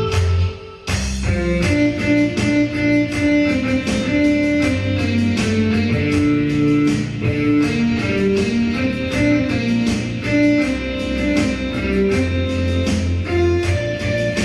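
Instrumental band music: strummed guitar over bass with a steady beat. It breaks off briefly about a second in, then the playing starts up again.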